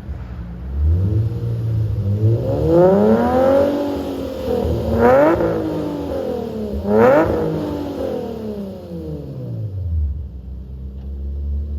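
Nissan 350Z's 3.5-litre V6 through a Fast Intentions aftermarket exhaust, revving: it rises slowly from idle, gives two sharp throttle blips, then drops back to a steady idle.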